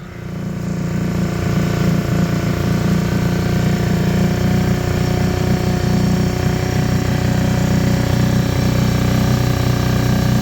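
An engine running steadily at a constant speed, close by.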